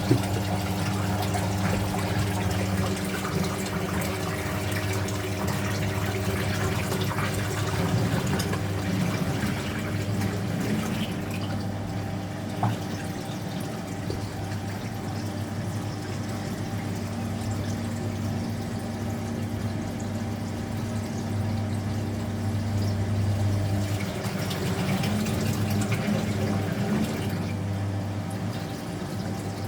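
Speed Queen top-loading washing machine moving water, a steady rushing of water over a constant low machine hum.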